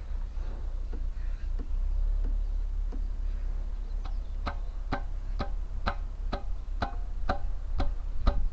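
Sharp, evenly spaced clicks, about two a second, starting about halfway through, over a steady low rumble.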